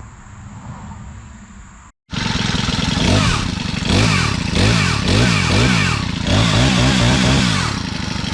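Small 18-inch four-stroke chainsaw engine running and revved over and over, the pitch rising and falling with each blip of the throttle. It has a note like a four-stroke motorcycle. Its sound cuts in abruptly about two seconds in, after a quieter stretch with a steady high tone.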